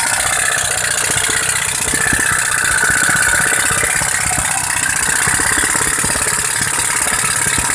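Compressed-air engine with an altered cam running steadily: a fast stream of exhaust puffs and knocks over a strong high hiss of escaping air, with a faint whistle-like tone for a few seconds in the middle.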